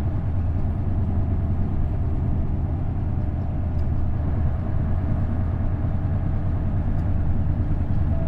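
Isuzu Erga bus's V8 diesel engine running steadily, heard from inside the passenger cabin as a constant low drone.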